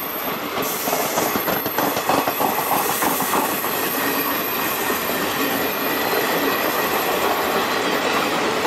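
Indian Railways sleeper-class passenger coaches rolling past slowly at close range: a steady rumble of steel wheels on rail, with the wheels clicking over rail joints, most clearly in the first couple of seconds.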